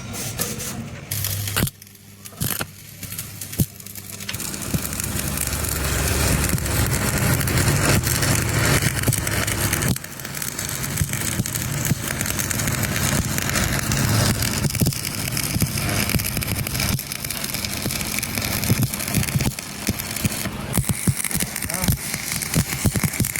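Stick-welding arc crackling and sputtering steadily as a bead is run, with a break of about two seconds near the start when the arc is stopped and struck again.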